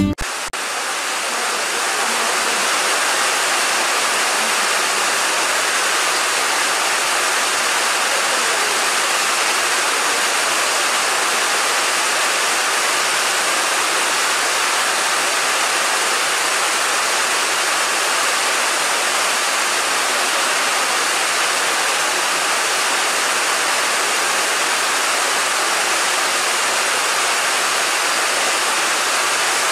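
Steady heavy rain, an even hiss that holds unchanged throughout.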